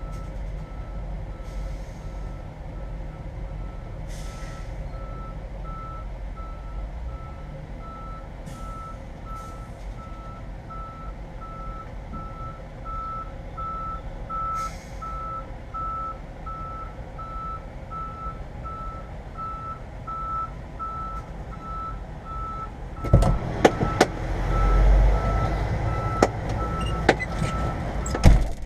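A semi truck's backup alarm beeping steadily at one pitch, about once a second, while the truck reverses, over a low engine rumble. Near the end come several sharp, loud knocks and a louder rush of noise.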